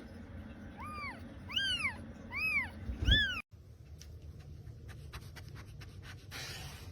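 A cat mewing four short, high-pitched times in quick succession, each mew rising and falling in pitch. After an abrupt cut, faint scattered clicks and a brief hiss follow near the end.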